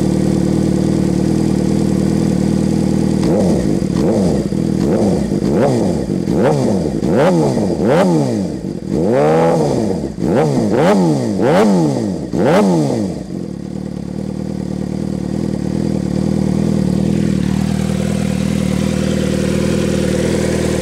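2006 Suzuki GSX-R600's inline-four engine through a Two Brothers Racing slip-on canister exhaust, idling, then revved in a quick run of about a dozen throttle blips that each rise and fall in pitch, the biggest near the middle, before it settles back to a steady idle.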